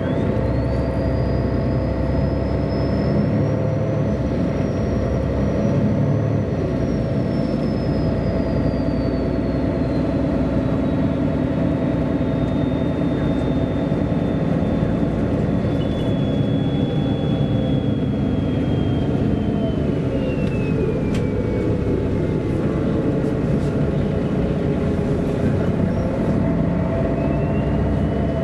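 MAN A23 articulated diesel city bus driving, a steady low running rumble with a high drivetrain whine on top that climbs as the bus gathers speed at the start, sinks slowly as it slows over the following twenty seconds or so, and climbs again near the end.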